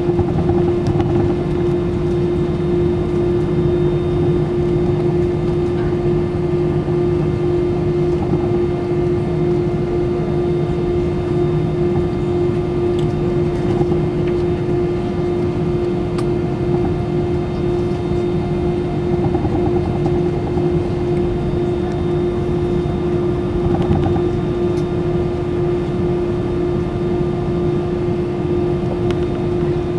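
Airbus A320-200 cabin noise heard from a passenger seat while taxiing for departure. The engines run with a steady drone, and a constant mid-pitched hum sits over it.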